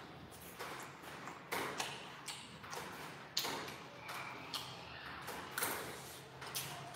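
A person chewing and crunching a mouthful of grilled dried fish and rice, with irregular sharp crackles and a metal spoon clinking against the ceramic rice bowl, over a faint steady low hum.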